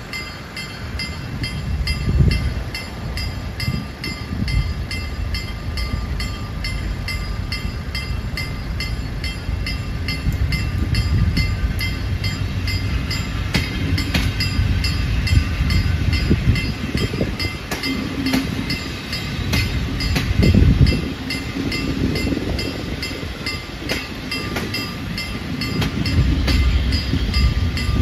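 PKP Intercity passenger train passing over a level crossing with a low rumble, its wheels clicking over rail joints now and then. Throughout, the crossing's electronic warning bell rings in an even, fast-repeating pattern.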